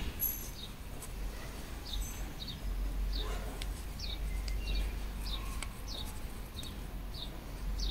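A small bird chirping: short, high notes that slide downward, repeated irregularly about every half second, over a steady low rumble.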